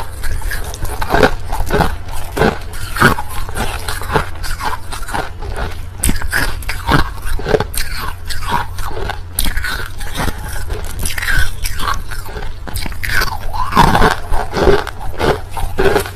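Crushed ice being bitten and chewed close to the microphone: a fast, irregular run of loud crunches.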